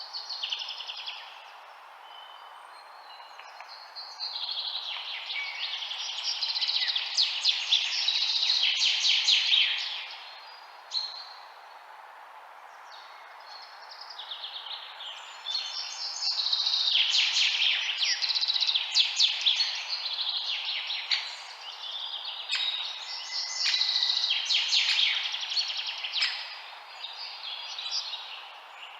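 Songbirds chirping and trilling in three busy bouts of rapid, high-pitched notes, with quieter spells between, over a steady background hiss.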